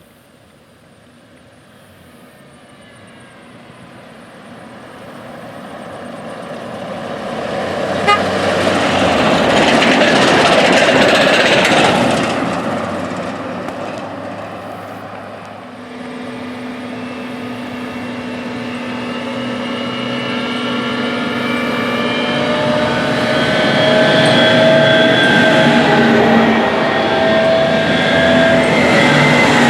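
Combine harvesters driving past on the road. Engine noise grows to a loud pass about ten seconds in and fades, then a second machine comes on with steady whining tones that get louder.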